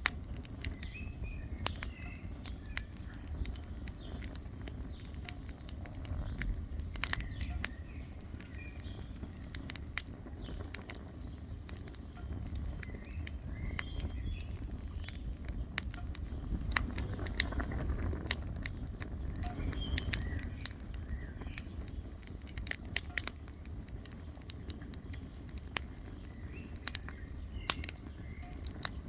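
Campfire burning, crackling and popping irregularly over a low steady rumble. A bird calls in the background every few seconds, each call a short falling whistle that settles on a high held note.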